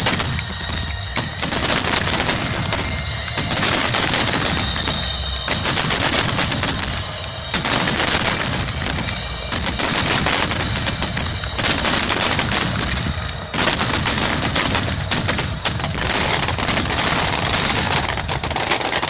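Fireworks finale: a dense barrage of shells bursting in rapid, overlapping reports like machine-gun fire over a continuous low rumble, barely letting up for the whole stretch.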